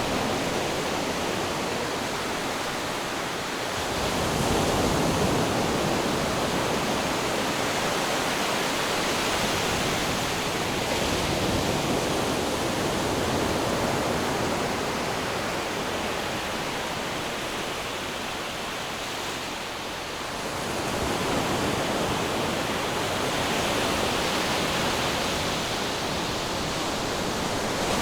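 Ocean surf: a steady rush of waves washing in, swelling louder about four seconds in and again about two-thirds of the way through.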